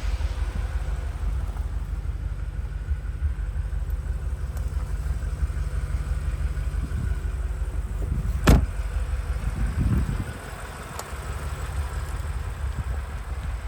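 Twin-turbo 4.4-litre V8 of a 2021 BMW M5 idling with a low, steady rumble. There is one sharp knock about eight and a half seconds in, and the rumble falls away about ten seconds in.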